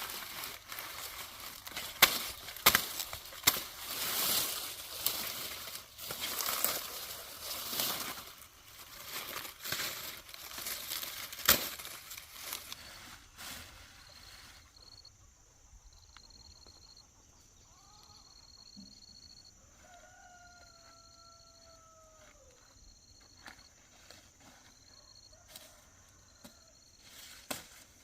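Dry leaves or husks rustling and crackling, with sharp snaps, as they are handled, for about the first thirteen seconds. Then it goes quiet and a rooster crows once about twenty seconds in, over faint high chirping that repeats about once a second.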